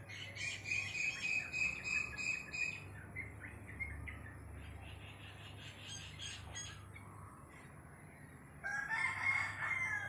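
A songbird sings a quick series of repeated chirping notes, then chirps more scattered. Near the end a rooster crows.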